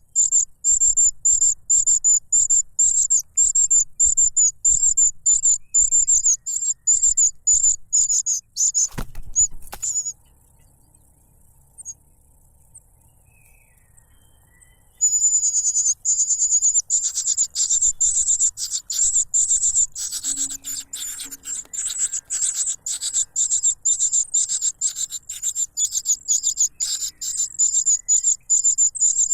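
Cuckoo chick begging for food: a fast, insistent run of high-pitched cheeps, repeated over and over. About nine seconds in the calls break off after a brief knock, it goes almost quiet for about five seconds, then the begging starts again just as loud.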